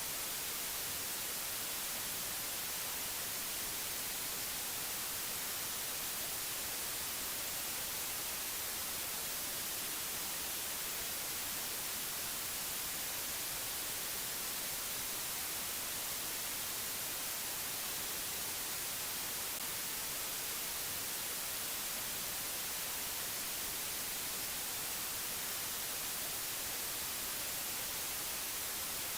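Steady white-noise hiss, even and unchanging, brightest in the high treble.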